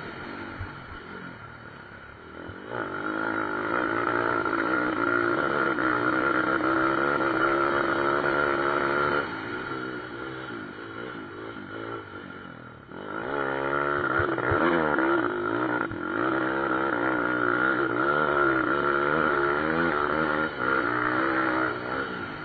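Pit bike engines racing, revving up and down through the gears. The sound swells loud twice: from about three to nine seconds in, and again from about thirteen seconds in until near the end.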